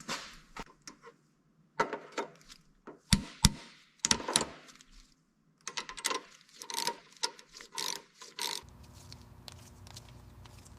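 Hand-tool work: a string of sharp clicks, knocks and short scraping strokes. Near the end it gives way to a steady low hum.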